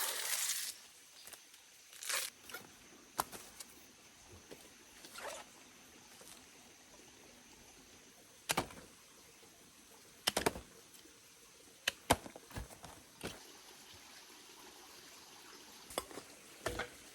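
Scattered crisp snaps and rustles as the sheaths of a wild banana stem are peeled and broken off by hand, about a dozen short sounds with quiet gaps between them.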